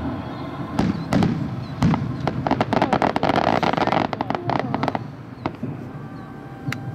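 Fireworks display going off: sharp cracks and bangs, a few at first, then a dense crackling run through the middle, thinning out to scattered pops after about five seconds.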